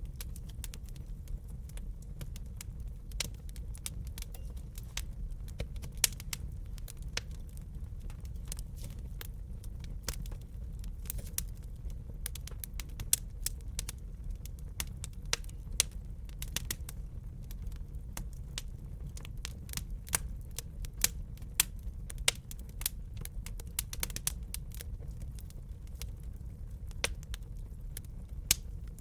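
Wood fire crackling: irregular snaps and pops over a low, steady rumble of burning, with a few louder pops standing out.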